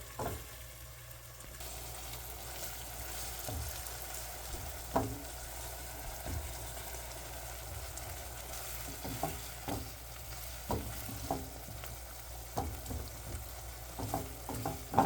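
Meat sizzling in a frying pan on the stove, a steady hiss that grows stronger about a second and a half in, with occasional knocks and scrapes of a utensil against the pan, the loudest about five seconds in and more often near the end.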